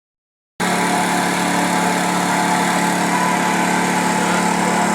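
A motor running steadily with a constant hum, starting abruptly about half a second in.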